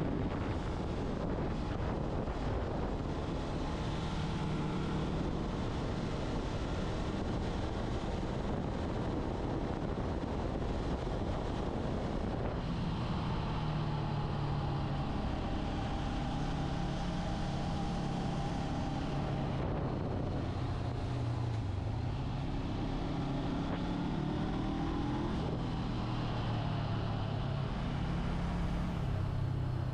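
Motorcycle engine running on the move, under steady wind rush on the microphone; the engine pitch rises and falls several times in the second half as the bike speeds up and slows.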